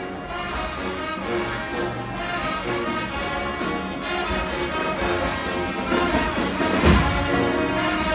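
High school marching band playing, with brass horns holding chords over the drums. Short cymbal strokes come about once a second, and a heavy low drum hit lands near the end.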